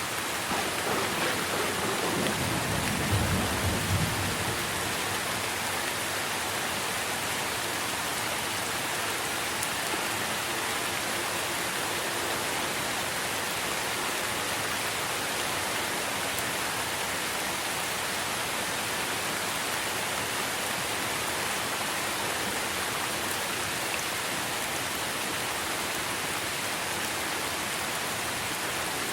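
Steady rain falling on trees, with a low roll of thunder rumbling from about one to four seconds in.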